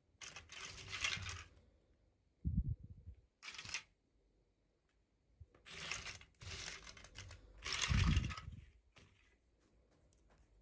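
Packaging being handled and torn open: about four bursts of rustling and tearing, with a couple of dull thumps as it is handled, the loudest about eight seconds in.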